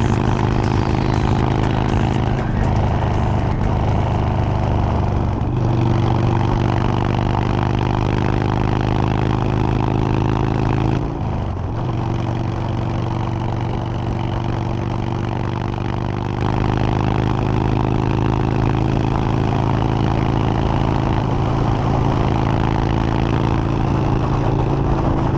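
Motorcycle engine running steadily at road speed, with wind rush. The engine note dips and shifts briefly about eleven seconds in, as when the rider shifts gear or rolls off the throttle.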